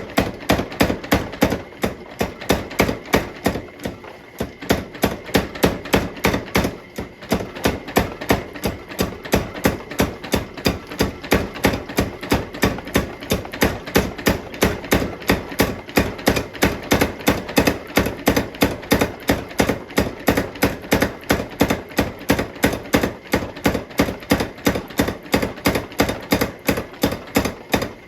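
Steel bar being forged with a hammer on an anvil: rapid, regular blows, about three a second, each with a short metallic ring, and brief breaks about four and seven seconds in.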